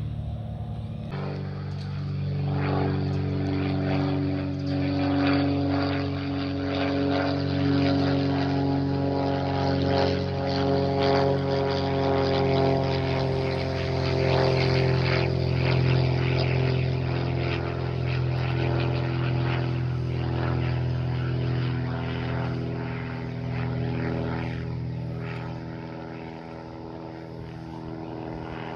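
Propeller airplane flying past, its engine drone growing louder, then fading away with a slight drop in pitch.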